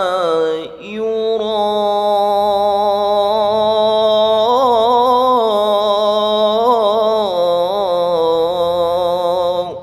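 Male qari reciting the Quran in melodic tajweed style, drawing out the final vowel of 'kusālā' as one long ornamented note with wavering turns. There is a short break in the voice about a second in.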